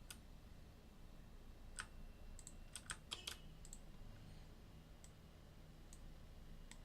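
Faint, scattered clicks of a computer keyboard and mouse, about ten spread irregularly over a few seconds, over a faint steady low hum.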